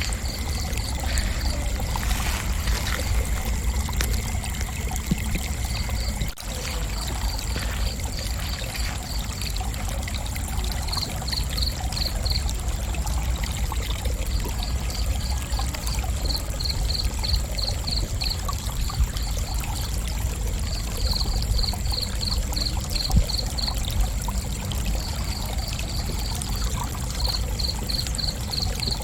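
Crickets chirping: high, rapid pulses come in bursts of several every couple of seconds over a continuous high insect trill, with a steady low rumble underneath.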